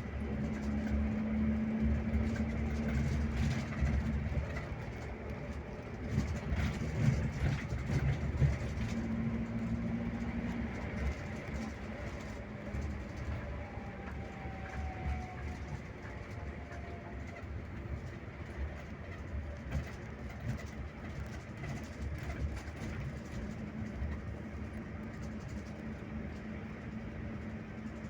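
Scania K360IB coach on the road: a steady engine drone and road noise, with a low hum that fades in and out.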